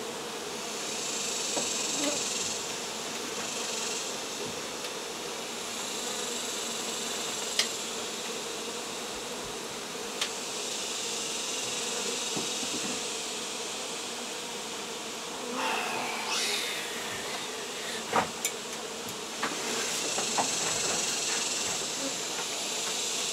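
A honey bee colony buzzing steadily in a dense, swelling hum, the bees stirred up while their hive is cut out. A few sharp knocks sound now and then, with a short scrape past the middle.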